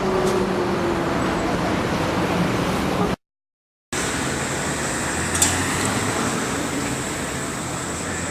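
Steady street traffic noise. A car engine's note falls away in the first second, and the sound cuts out for a moment about three seconds in. The traffic hum then carries on with a thin high whine and one sharp click.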